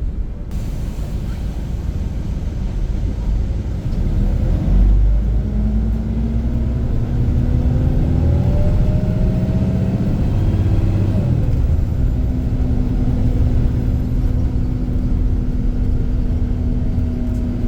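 Diesel engine of an Iveco Crossway LE city bus accelerating hard after a kickdown about four seconds in: the engine note rises for several seconds, drops at a gear change around eleven seconds, then holds a steady drone.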